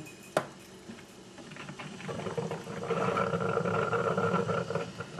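Drip coffee maker gurgling and sputtering as it brews: a crackling, bubbling hiss that builds over a couple of seconds, holds steady, then eases off near the end. A single sharp click comes just before it.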